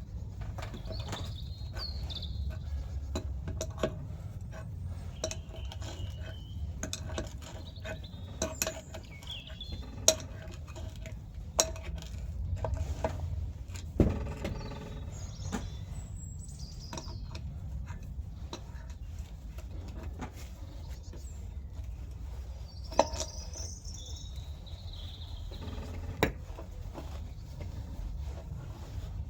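Scattered metallic clinks and taps of hand tools and parts being handled while refitting a fitting on an old engine, with birds chirping now and then over a steady low background rumble.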